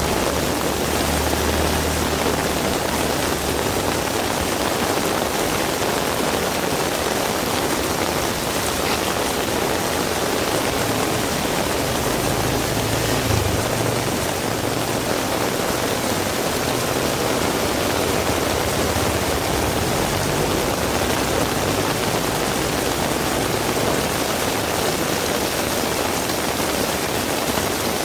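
Heavy rain falling steadily, a dense unbroken hiss. A low engine rumble from passing road traffic rises under it at times, near the start and about halfway through.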